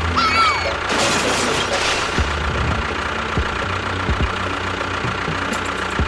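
Engine running steadily, with a rushing noise that comes in about a second in.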